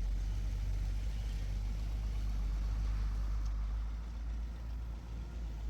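Truck engine running steadily at idle, a constant low rumble.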